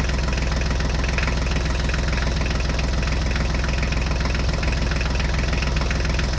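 Tractor engine idling steadily, a constant even running sound with no change in speed.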